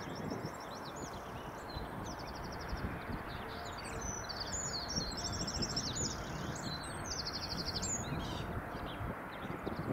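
Small birds chirping, with several fast trills from about four to eight seconds in, over a steady rushing background noise.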